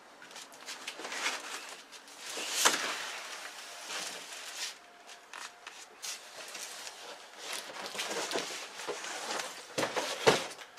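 Irregular handling noises: rustling with scattered clicks and knocks, a louder knock about two and a half seconds in and another near the end.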